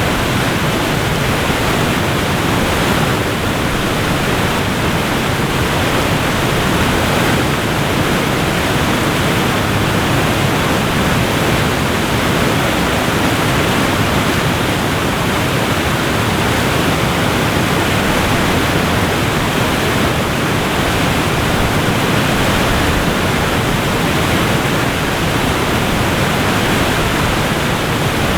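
Waterfall, water falling and rushing in a steady, dense noise with no breaks.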